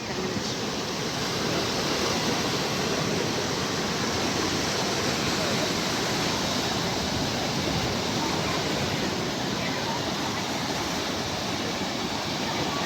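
Sea surf: a steady, even wash of breaking waves with no distinct single crashes.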